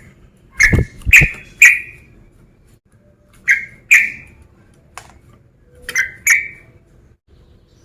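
Yellow-vented bulbul singing: loud, short notes in quick groups of three, then two, then two, with pauses between the groups. A deep thump sounds under two of the early notes.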